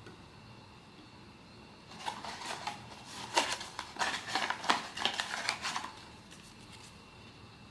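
Blind-box toy packaging being handled and opened: a run of crinkles and small clicks that starts about two seconds in and lasts about four seconds.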